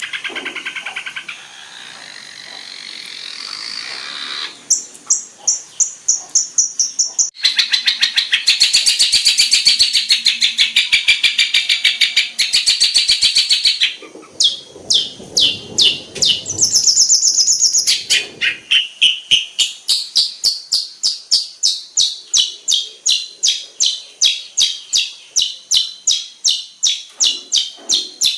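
Songbird song from a masteran training recording for long-tailed shrikes: a run of varied high chirps, trills and fast note series, then, in the last third, a long string of sharp repeated notes about three a second.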